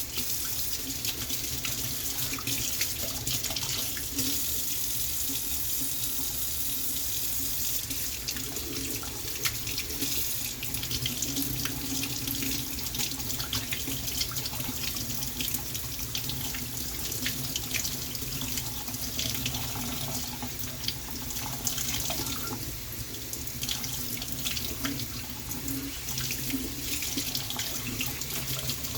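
Water running steadily from a tap, a constant rushing with small splashes and crackles throughout.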